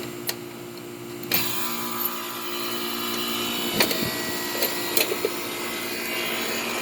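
Central air conditioner condensing unit starting up as its disconnect is plugged back in: a couple of sharp clicks, then about a second in the reciprocating compressor and condenser fan come on and settle into a steady run. A second unit already running keeps a steady hum underneath, with a few more clicks near the middle.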